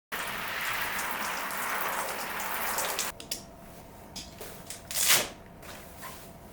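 Water splashing and pattering onto a waterproof TPU motorcycle bag, showing that it keeps rain out. The splashing stops about three seconds in, leaving scattered drips and taps, with one loud brief swish about five seconds in.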